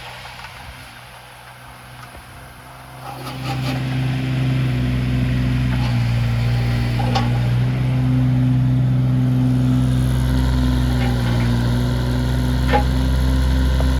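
Kubota KX015-4 mini excavator's 3-cylinder diesel running quietly, then rising in speed about three seconds in and holding a steady, loud run. A few light clicks come over it near the middle and end.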